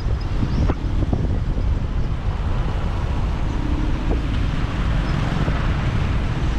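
Motorcycle riding along, heard from the bike: a steady low engine and road rumble mixed with wind buffeting the microphone.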